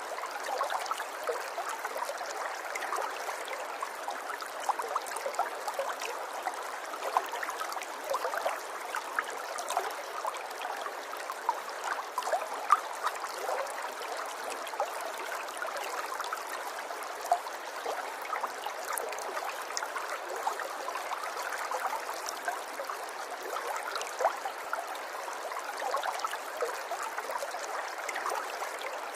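River water flowing and gurgling steadily, with many small splashes and drips over the running water.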